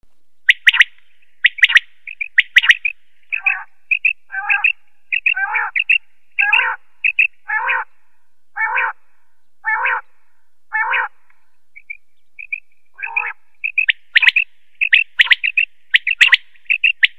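A bird calling over and over in short, separate notes, about one call a second. Sharp clicking chirps come near the start and again near the end, with longer, harsher calls in between.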